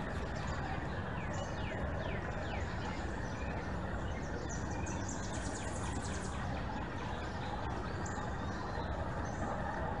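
Small wild birds chirping in short, quick, downward-sliding notes over a steady background hiss.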